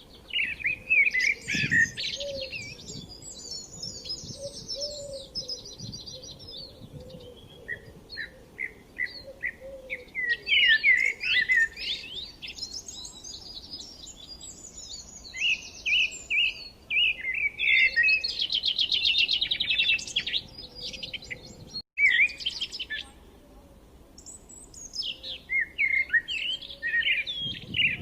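Small songbirds singing: bouts of quick repeated chirps mixed with rapid, buzzy trills, one bird after another.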